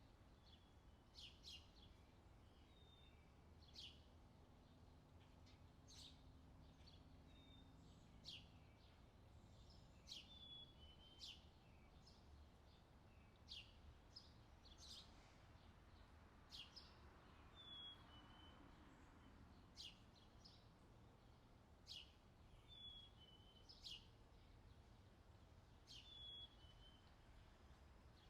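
Faint birdsong: sharp, high, downward-sweeping chirps about every two seconds, each often followed by a short lower note, over a low steady hum.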